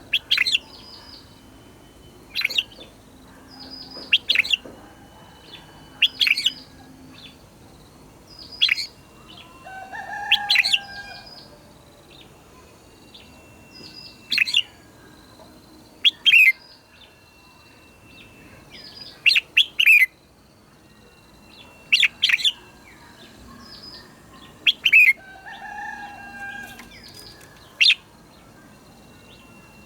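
Red-whiskered bulbuls singing short, sharp, whistled phrases every second or two, many of them falling in pitch and some coming in quick pairs. Fainter, lower calls come in twice, once about ten seconds in and once near twenty-six seconds.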